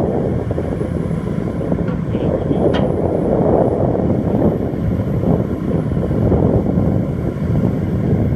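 Heavy diesel machinery running steadily: an excavator working while it loads dump trucks, a dense continuous rumble with no breaks.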